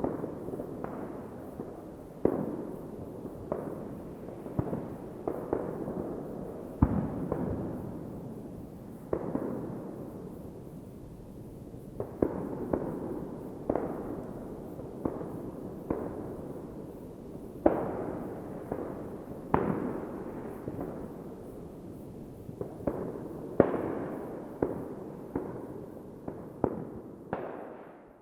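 New Year's Eve fireworks going off: a steady stream of sharp bangs from exploding shells at uneven intervals, each trailing off in a rolling echo, with crackling between them. The sound fades out at the very end.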